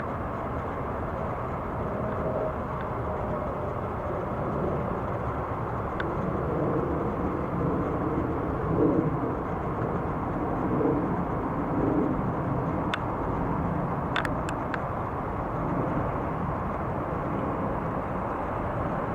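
Steady low outdoor rumble of distant engines, swelling slightly in the middle, with a few sharp clicks near the end.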